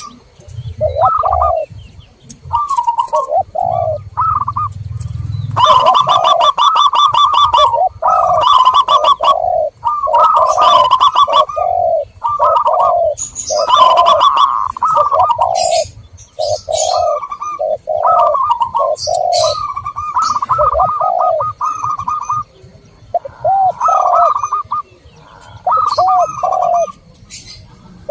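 Zebra doves and spotted doves cooing in repeated rolling phrases, with scattered high chirps from smaller birds. This is a dove lure recording (pancingan) played to call in wild perkutut and terkukur.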